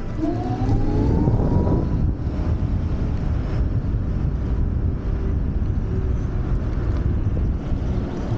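Wind rushing over the microphone of a moving Wolf Warrior 11+ electric scooter, with the scooter's motor whine rising in pitch over the first two seconds as it accelerates.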